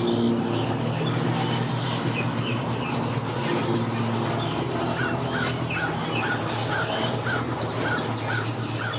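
Birds calling: one repeats a short note about twice a second through the second half, with scattered higher chirps, over an engine running at a steady low hum.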